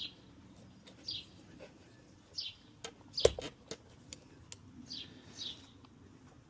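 A bird calling short, falling high notes every second or so, with a few sharp plastic clicks and knocks about halfway through, the loudest a single snap, as parts of a pressure washer are fitted together.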